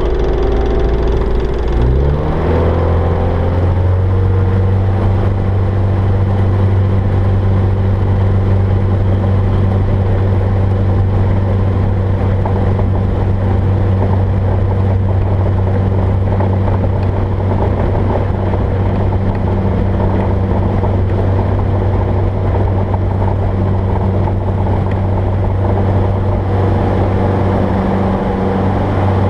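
Jabiru J-170 light aircraft's four-cylinder Jabiru 2200 engine and propeller opening up to full throttle about two seconds in, the pitch rising, then running steadily at full power, as on a takeoff run.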